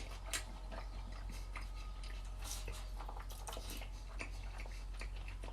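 A person chewing a mouthful of a steak and rice burrito bowl: small wet mouth clicks and smacks scattered throughout, over a steady low hum.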